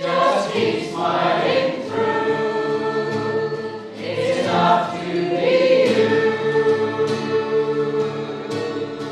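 A choir singing long held notes, easing off slightly near the end.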